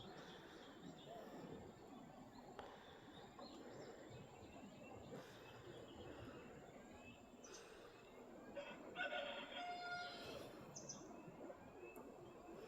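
A single bird call of about two seconds, roughly nine seconds in, over a faint, quiet outdoor background.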